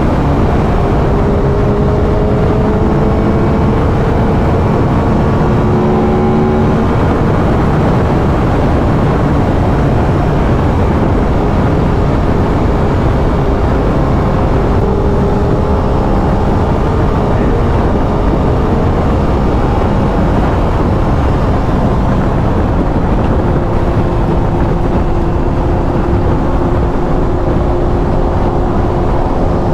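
Aprilia RS 660's 659 cc parallel-twin engine on its stock exhaust at highway cruising speed, its note drifting slightly up and down with the throttle. Heavy wind rush on the microphone runs beneath it.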